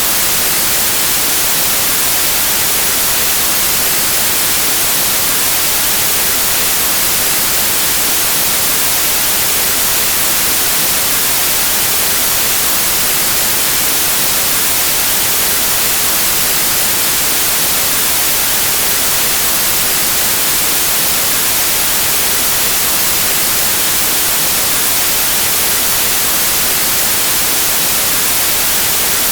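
Steady white noise: an even, unchanging hiss of static, strongest in the high frequencies.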